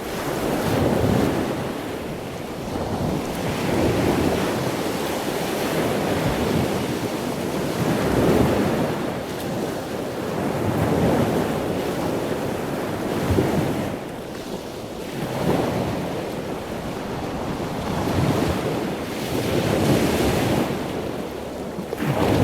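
Ocean surf: waves breaking and washing in, swelling and fading every few seconds, with wind on the microphone.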